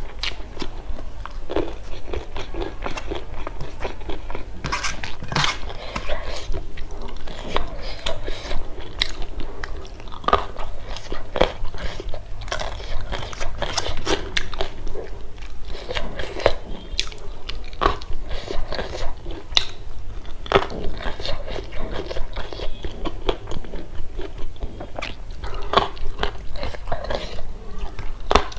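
A person chewing and eating rice and side dishes close to a clip-on microphone, with many sharp, irregular mouth clicks and smacks throughout.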